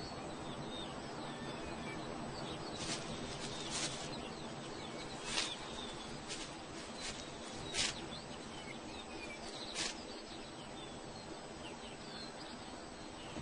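Outdoor birdsong ambience: many small birds chirping faintly and steadily, with about seven short, sharp, louder sounds scattered from about three seconds in to near the end.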